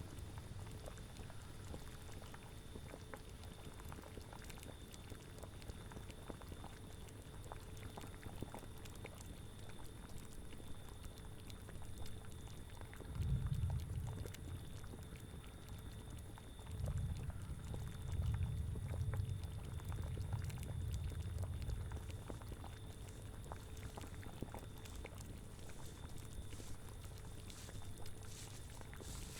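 Cauldron of liquid bubbling at a steady boil, with small pops scattered through it. Low rumbling swells rise under it twice in the middle, a short one and then a longer one.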